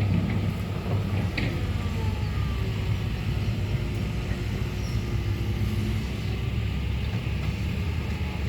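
Heavy diesel engine running steadily with a low drone, with a few light clicks and knocks in the first second or so.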